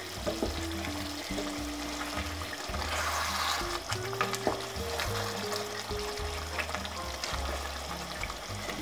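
Mackerel black stew sizzling in oil in a pot while a wooden spoon stirs and scrapes through it, with scattered light clicks. Background music with a bass line plays underneath.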